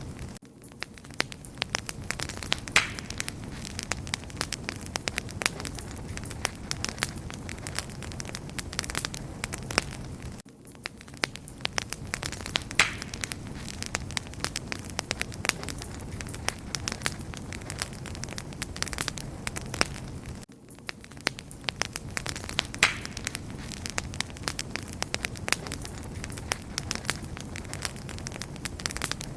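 Wood fire crackling, with a steady hiss of burning and frequent sharp pops. The same stretch of crackling repeats about every ten seconds, with a brief dip in level between repeats.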